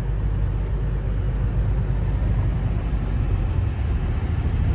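Kenworth T600 semi truck's diesel engine running, a steady low drone heard from inside the cab.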